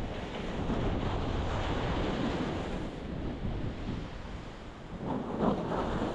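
Ocean waves breaking on a rocky shore: a continuous wash of surf that swells and ebbs, with a louder crash about five seconds in. A low rumble of wind on the microphone runs underneath.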